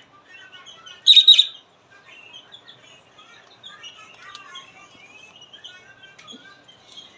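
Small pet parrots (budgies and lovebirds) chirping and chattering steadily, with one loud, shrill call about a second in.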